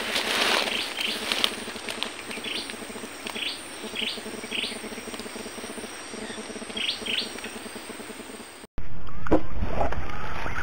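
Birds chirping in short, sharp calls, repeated over a steady outdoor hiss. Near the end the sound cuts off abruptly and is replaced by a louder, low rumbling noise.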